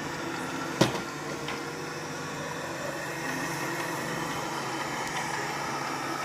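Robot vacuum cleaner running with a steady motor hum and brush whir. One sharp knock just under a second in.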